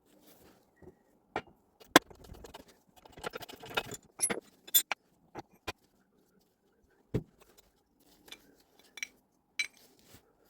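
Metal parts of a Hilti TE76 rotary hammer clinking and clattering as they are handled and set down during its rebuild: scattered sharp clinks with a brief rattle, the loudest about two seconds in, and a duller knock about seven seconds in.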